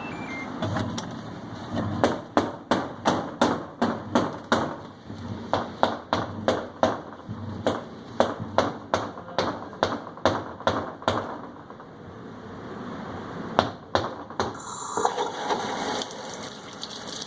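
A run of sharp knocks, about two or three a second, lasting about nine seconds, then one more knock and a brief rush of noise near the end.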